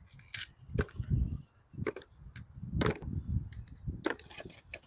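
Pieces of homemade charcoal being cut and handled: a series of sharp, ceramic-like clicks and cracks, each with a dull knock, about once a second. The crisp ring is the sign of well-made charcoal; overcooked pieces only thud.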